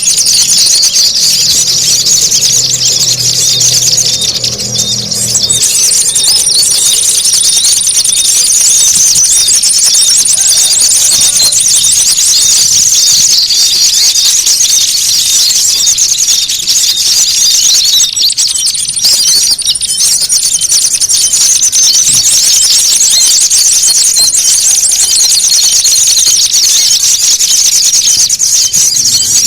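A dense, non-stop chorus of many small songbirds giving rapid, high-pitched chattering and scolding calls, the agitated "fighting" calls used as a lure to draw small birds in. A steady, thin high whine comes and goes over the calls, and a faint low hum runs under the first few seconds.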